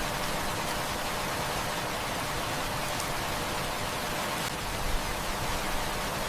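Heavy rain falling steadily, with a few sharp pops from a crackling wood fire.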